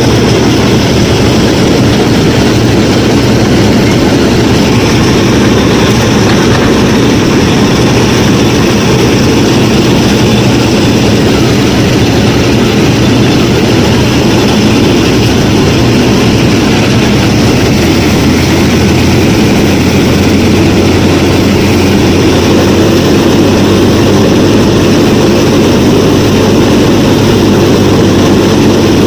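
Motor of a home-built miniature combine harvester running steadily under load, a loud continuous hum that deepens slightly about two-thirds of the way through.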